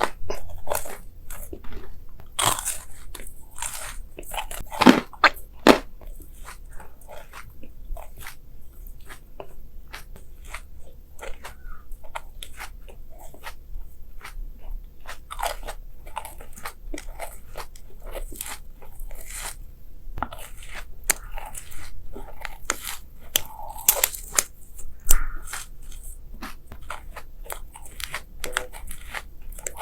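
Close-miked ASMR eating: a person biting into and chewing crisp, crunchy food, a steady string of sharp crunches with a few louder bites about five seconds in and near the last few seconds.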